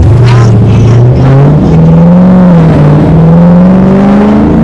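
V8 muscle car engine accelerating hard, its pitch climbing steadily in one long pull through the gear.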